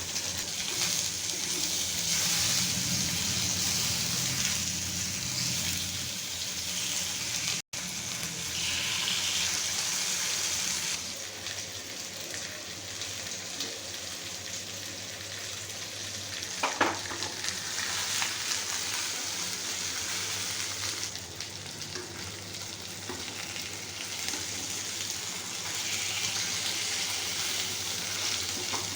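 Food sizzling steadily in hot oil in a pan while it is stirred, with a short sharp clink of a utensil about 17 seconds in. The sound breaks off for an instant about 8 seconds in.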